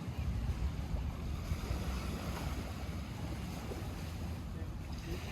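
Lake water lapping at the shore, a steady wash of small waves, with wind buffeting the microphone as a low rumble.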